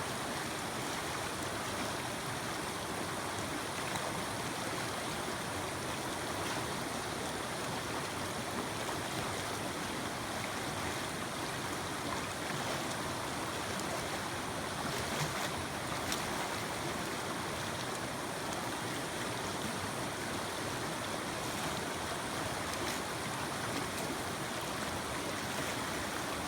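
Mountain creek water rushing steadily over rocks, with a few faint clicks about halfway through.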